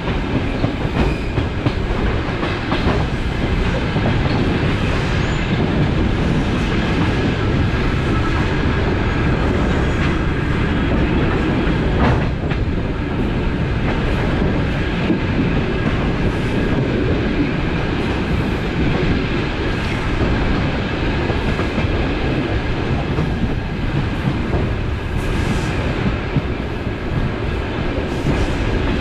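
Inside the carriage of a moving DC electric suburban train: a steady rumble of the wheels running on the rails, with scattered clicks over rail joints and one sharper knock about twelve seconds in.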